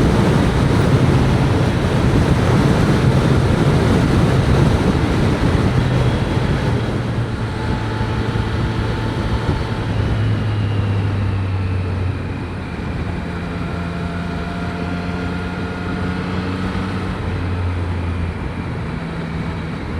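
Wind rushing over a motorcycle helmet at highway speed, heard from a mic inside the helmet, over the steady note of a Triumph Street Triple 765 RS's three-cylinder engine. The wind noise eases about halfway through as the bike slows, leaving the engine note clearer.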